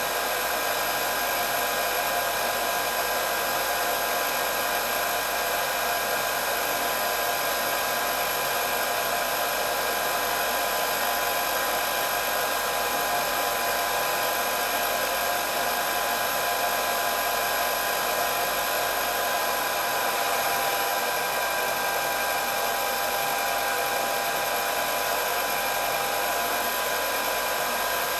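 Hair dryer running steadily: an even rush of blown air with a high, constant motor whine over it.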